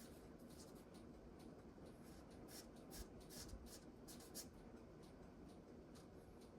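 Faint scratching of a marker's bullet tip colouring on cardstock in quick back-and-forth strokes. The strokes come several a second and are busiest around the middle.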